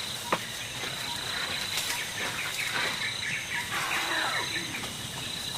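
Wild birds calling in quick runs of short chirps over a steady, high insect trill, with a single click near the start.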